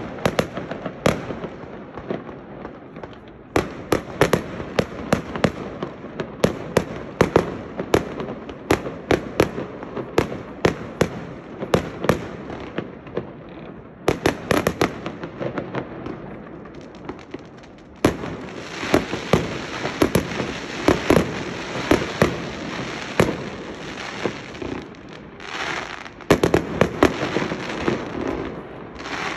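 Fireworks display: a rapid, irregular run of sharp bangs and pops. About two-thirds of the way through, a steady hiss joins the bangs.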